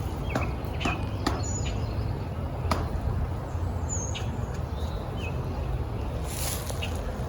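Outdoor background with a steady low rumble, a few sharp clicks and knocks in the first three seconds, and scattered short bird chirps.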